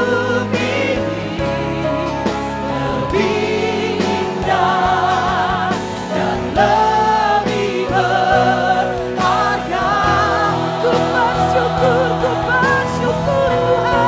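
Worship music: a band playing with a singer and congregation singing a slow praise song, held notes with vibrato over a steady bass.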